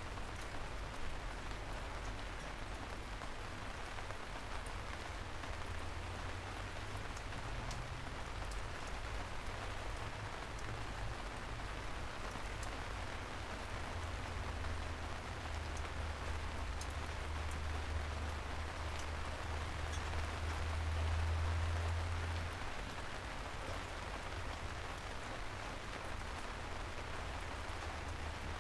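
Steady rain falling on a surface, a dense even patter with scattered single drops. A low rumble underneath swells in the middle and fades again.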